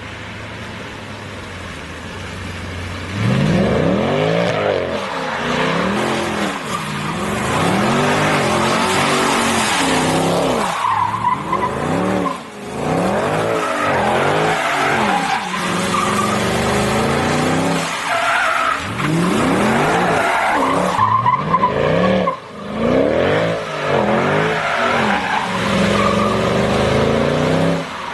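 Mercedes C63 AMG V8 exhaust revving hard and falling back again and again as the car slides on a wet road with ESP off, each rise and fall taking a couple of seconds, with tyre skid noise. For the first few seconds the engine runs lower and steadier before the hard revving starts.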